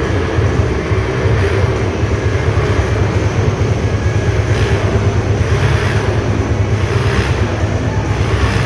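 Motorcycle engines running steadily with a low, fluttering rumble, rising and falling in regular swells about once a second.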